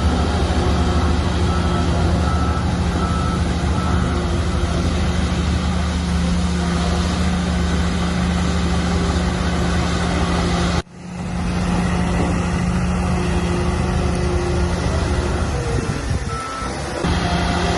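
Shantui bulldozer's diesel engine running steadily, with a reversing alarm beeping in short, evenly spaced tones during the first few seconds. About eleven seconds in the sound cuts out for an instant and comes back.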